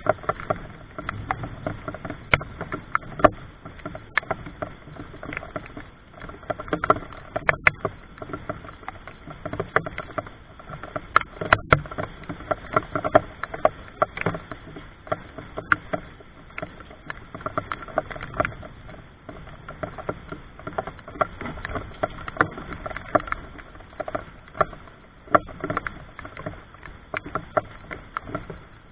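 Rain falling, with irregular drops tapping and splashing close by.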